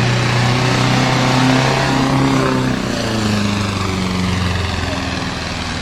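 Small tractor engine of about 30 horsepower running hard under load through a mud course. Its pitch drops a step about three seconds in.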